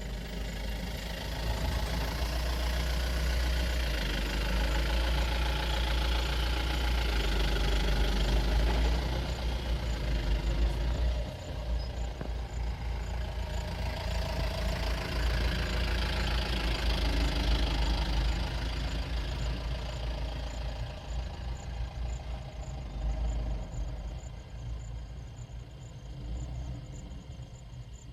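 Vehicle engine idling steadily, with a strong low rumble.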